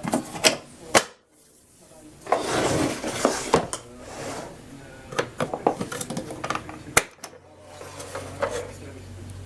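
Clicks, knocks and clattering of hard parts being handled while the vacuum cleaner is switched off, with a faint steady low hum setting in near the end.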